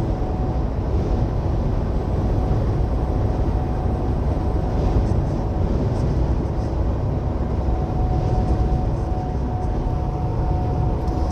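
Steady cab noise of a tanker semi-truck driving at highway speed: a low engine drone and road noise with a faint steady tone running through it.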